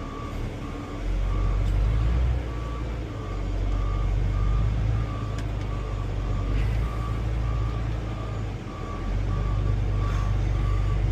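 Heavy vehicle engine running low and steady, heard from the cab, with a warning alarm beeping evenly at about three beeps every two seconds.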